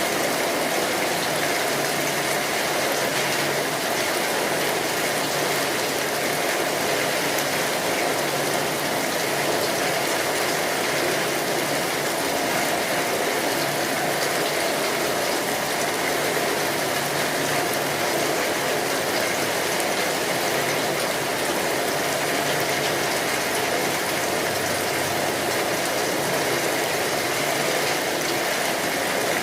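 Steady rainfall, an even hiss of many drops that neither rises nor falls.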